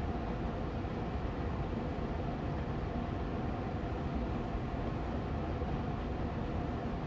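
Air purifier fan running steadily on medium speed: an even whooshing hum with a faint steady tone over a low rumble.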